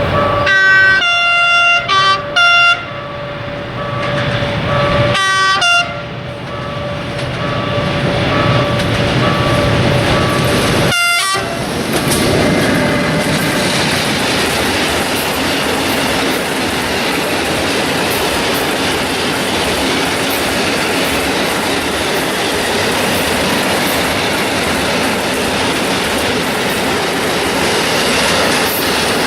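Electric locomotive of a loaded stone freight train sounding its horn: a blast about a second in, two short ones straight after, and another about five seconds in, over a steady tone. From about twelve seconds the heavy train passes close by, a continuous rumble of wagon wheels clacking over the rail joints.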